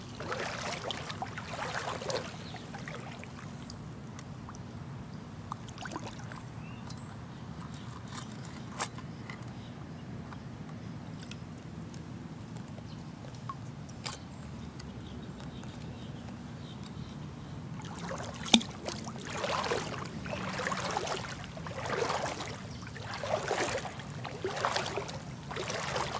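Wading through a shallow, rocky creek: water sloshing with each stride, at the start and again from about two-thirds of the way in, roughly one splash a second. A single sharp knock comes just before the second stretch of wading. Under it all runs a steady low rumble of road traffic.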